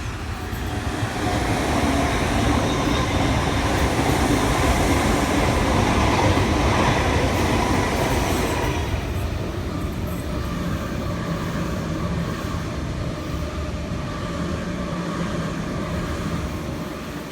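Sydney Trains Waratah (A-set) electric train running through the station at speed without stopping. The rush of wheel and motor noise builds over the first few seconds, is loudest about five to eight seconds in, then eases to a steadier drone as the train runs past.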